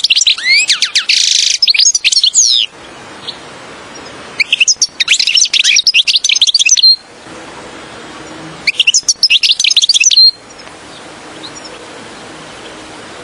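European goldfinch song: three loud phrases of rapid, liquid twittering, each two to three seconds long, with short pauses between them. A faint steady hiss fills the gaps and the last few seconds.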